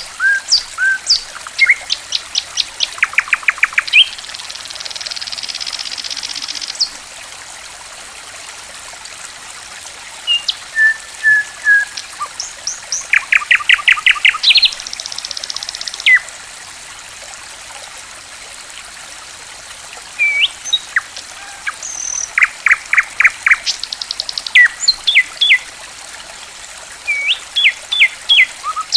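A songbird chirping and trilling in bouts of quick repeated notes over the steady trickle of running water. There are two pauses of a few seconds where only the gently flowing water is heard.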